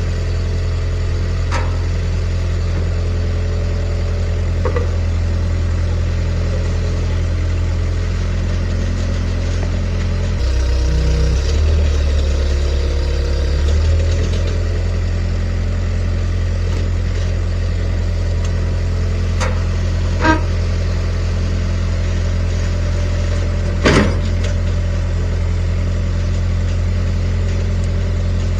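A vehicle engine running steadily, with its pitch shifting for a few seconds about ten seconds in. Two short sharp knocks come later.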